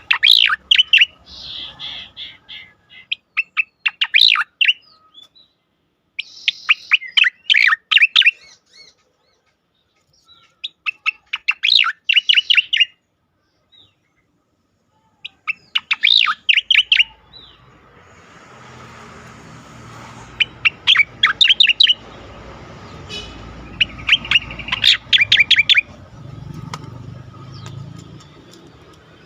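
Striated grassbird (cica koreng) singing its 'ngejos' song: short bursts of fast, sharp, repeated notes, each a second or two long, separated by pauses. About two-thirds of the way through, a steady low background hiss comes in beneath the song.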